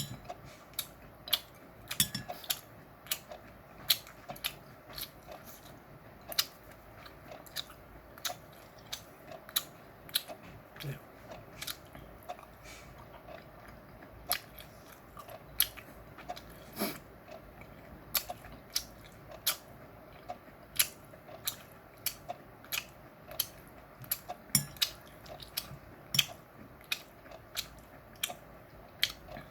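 A person chewing chewy meat close to the microphone: a steady run of sharp mouth clicks and smacks, irregular, about one to two a second.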